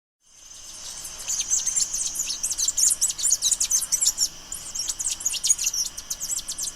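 Small birds chirping rapidly, many short high chirps overlapping as if from several birds. The sound starts out of silence just after the beginning.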